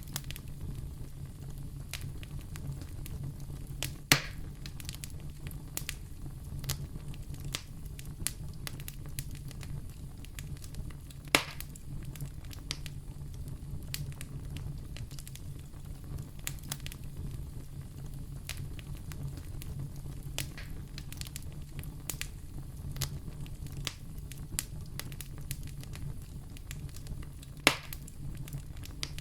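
Wood fire burning in a fireplace: a steady low rumble of the flames under frequent irregular crackles and pops, with three sharper pops about 4, 11 and 28 seconds in.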